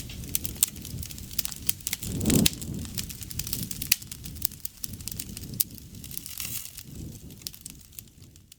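Wood campfire crackling and popping, with many sharp snaps over a low rumble of burning. A louder low whoosh swells up about two seconds in, and the sound fades away near the end.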